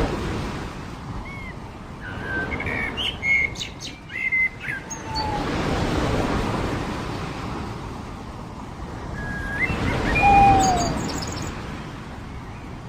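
Waves washing onto a beach in slow swells, with birds calling over them in two clusters of short chirps and gliding whistles, about a second in and again near ten seconds.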